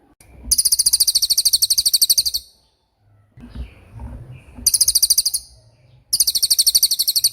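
Cililin bird singing its rapid-fire 'tembakan' phrase: three high-pitched trills of fast, evenly repeated notes, about ten a second, the first lasting about two seconds.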